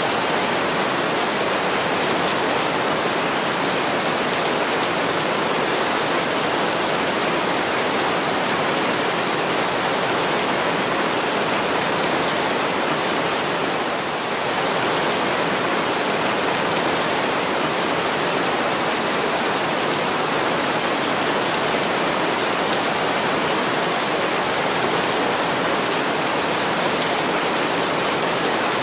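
Heavy rain pouring against window glass: a steady, dense hiss, dipping slightly for a moment about halfway through.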